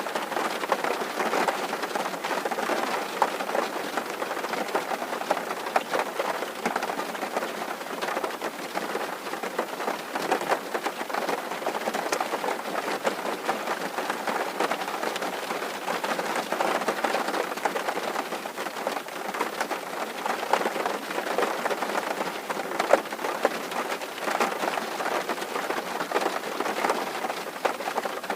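Steady rain drumming on a tin roof, a dense even patter of drops with the odd sharper tick standing out.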